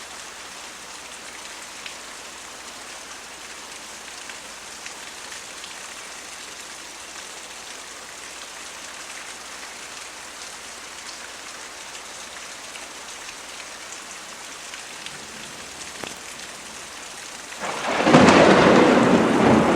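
Steady rain falling, then near the end a sudden loud clap of thunder that breaks in and keeps rumbling.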